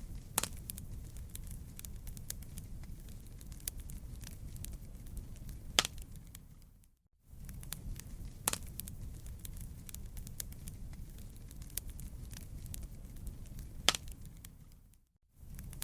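Wood campfire crackling over a low steady rumble, with a few sharp, loud pops a few seconds apart. The sound drops out for a moment about seven seconds in and again near the end.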